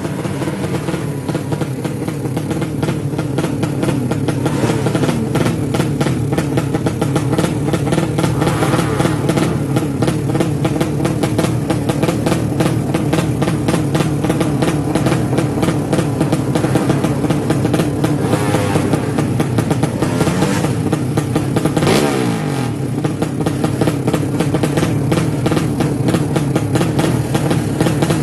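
200cc drag-racing motorcycle engine running steadily and loudly, with a quick rev up and down about twenty-one seconds in.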